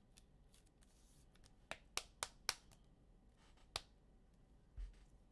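A quiet room with a few sharp clicks and taps from cards being handled on a desk: one, then three in quick succession about two seconds in, another a little later, and a soft low thump near the end.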